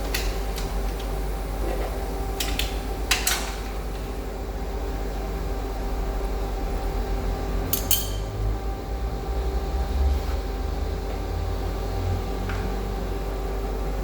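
A few scattered metallic clinks and taps, the loudest a little after three seconds and a quick double clink about eight seconds in, over a steady low hum.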